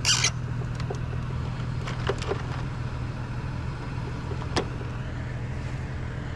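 Truck engine idling steadily, with a few light clicks and taps over it.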